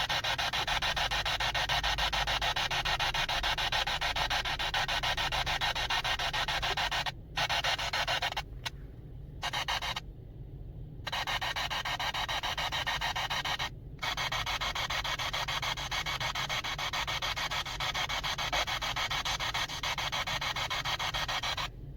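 A steady hiss like radio static, cutting out abruptly a few times around the middle.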